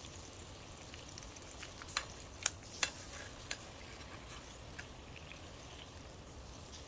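Food frying faintly in a pan, a thin steady sizzle, with a few sharp clicks about two to three and a half seconds in.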